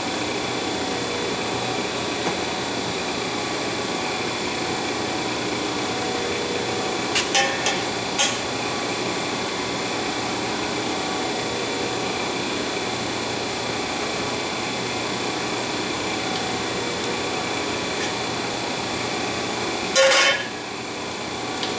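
Steady running noise of a hydraulic exhaust-pipe bender, with a few sharp metal clanks about seven and eight seconds in and again near the end.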